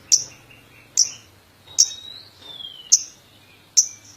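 Lovebird giving five sharp, shrill chirps, about one a second, with faint thin whistles between them.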